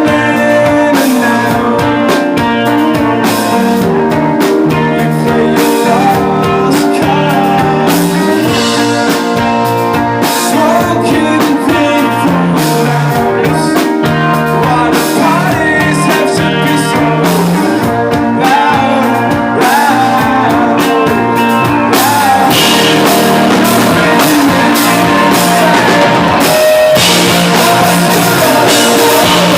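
Live rock band playing loudly: electric guitar and drum kit, with some singing.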